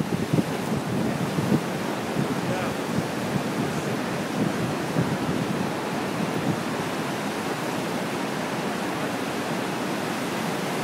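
Waterfall pouring down, a steady heavy rush of water, with wind buffeting the microphone now and then in the first couple of seconds.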